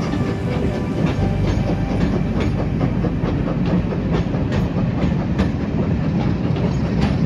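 Railway passenger coaches rolling past with a steady rumble, their wheels clicking irregularly over the rail joints.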